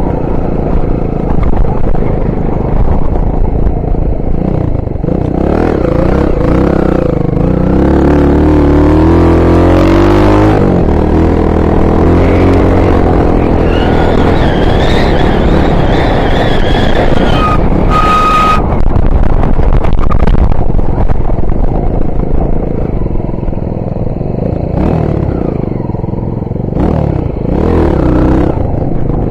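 Honda XR 250 Tornado trail bike's single-cylinder four-stroke engine running while ridden, its revs rising and falling; it climbs in pitch about a third of the way through, then drops back.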